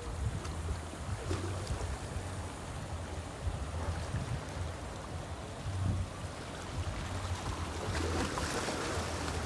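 Waterside ambience: steady rushing of moving water and wind over a low, uneven rumble. The rush swells a little about eight seconds in.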